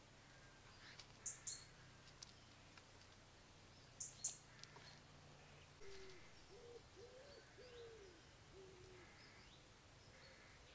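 A bird's low call of about five hooting notes in one phrase, some rising and falling in pitch, preceded by two pairs of short, sharp, high-pitched chirps.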